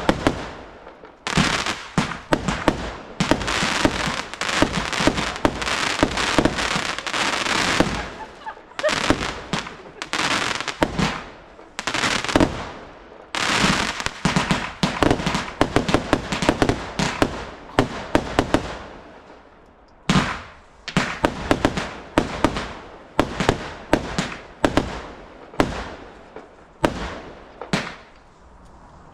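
Fireworks going off in quick succession: a dense volley of bangs and crackle, then clusters of bursts, and near the end a steady run of single bangs about two a second.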